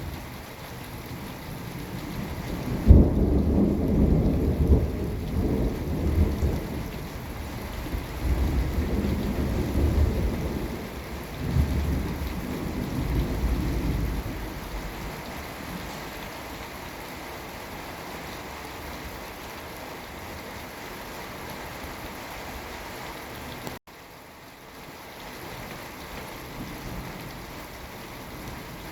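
Thunder over steady rain. A clap breaks about three seconds in and rolls on in waves of low rumble for about ten seconds before dying away, leaving the rain hissing on its own.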